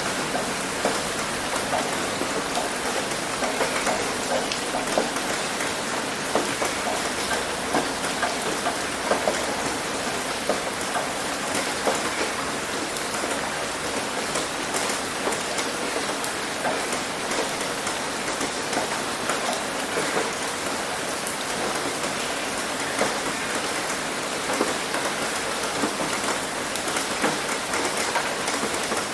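Heavy rain hitting a roof: a steady dense patter with many individual drop impacts.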